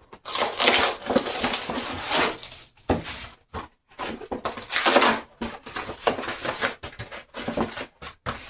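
Handling noises while getting ready to make a pizza: rustling and crinkling, broken by small clicks and knocks. There are two longer spells of crinkling, one in the first couple of seconds and one about five seconds in.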